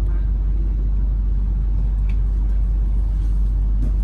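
Inside a Melbourne Metro suburban electric train carriage on the move: a steady low rumble, with a faint click about two seconds in.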